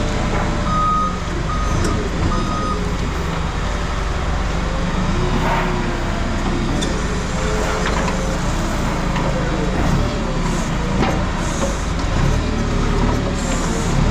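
Heavy vehicle's engine running steadily, with its backup alarm beeping three times in the first few seconds.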